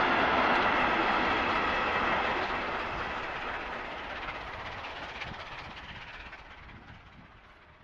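A train's rolling rattle as it runs away, fading steadily from loud to faint over several seconds.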